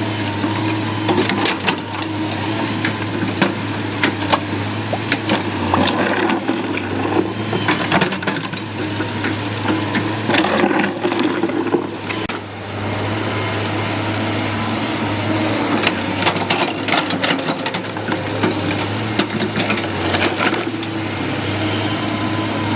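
Excavator's diesel engine running steadily, with scattered metal clanks and knocks from the machine at work.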